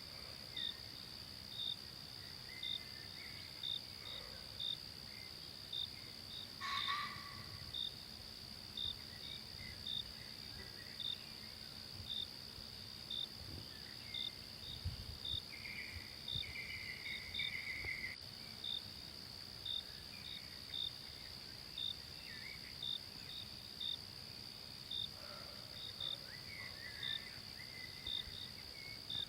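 Forest insect chorus: a steady high drone with a cricket's short chirps repeating about once a second. Faint bird calls come and go, with one louder call about seven seconds in.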